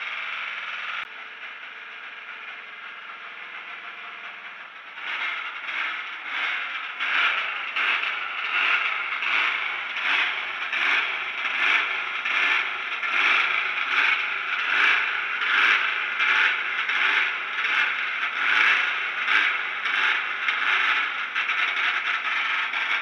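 Race-prepared VW Beetle's air-cooled flat-four engine running through open exhaust pipes, badly distorted by the camera's microphone. From about five seconds in it becomes louder and pulses harshly about twice a second.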